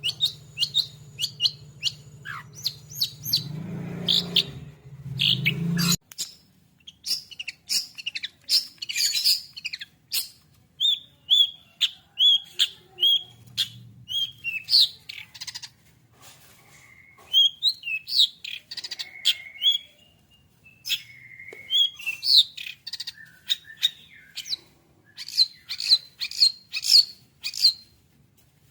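Long-tailed shrike (cendet) singing excitedly: quick runs of sharp, high chirps broken by a few lower slurred notes. A low hum sits under the first few seconds and cuts off suddenly.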